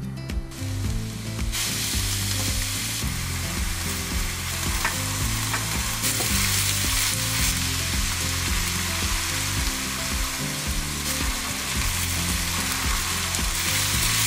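Ground pork and chopped leek, then cubes of deep-fried tofu, sizzling in sesame oil in a frying pan. The sizzle starts about a second and a half in, grows louder a moment later and then stays steady.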